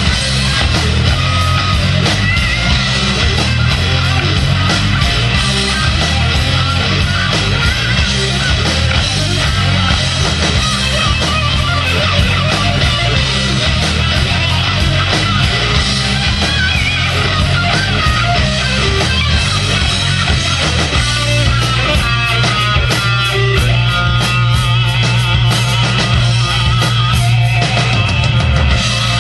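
Rock band playing an instrumental section with electric guitar to the fore over bass and drums, no singing. About two-thirds of the way through, the low end settles onto one long held note.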